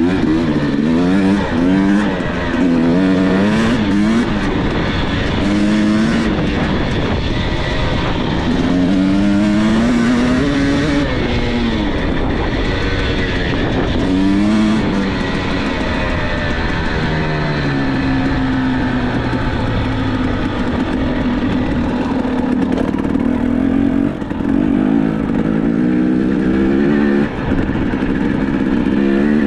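Dirt bike engine being ridden hard, revving up and easing off again and again, its pitch rising and falling every second or two.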